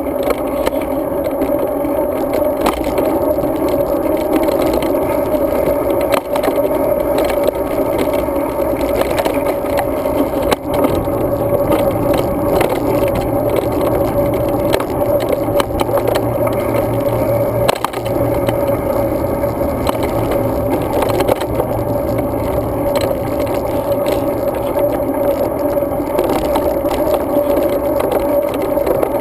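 Steady, muffled wind and road noise of a bicycle ride picked up by a GoPro action camera, with a few small rattles and knocks. A low hum joins in from about twelve to seventeen seconds in.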